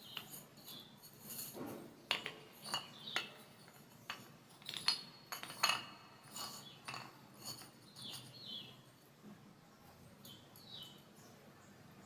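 Sharp, irregular crunches and hard clinks of baked clay being bitten and chewed, from a small clay diya and clay cup, clustered most densely and loudly a few seconds in.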